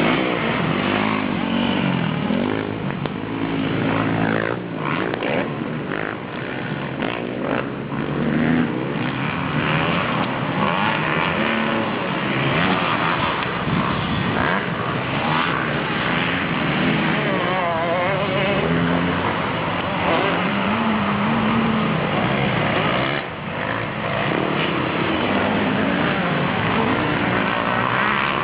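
Motocross bike engines revving up and down over and over, the pitch climbing and dropping as the throttle opens and closes, with a brief dip in level about 23 seconds in.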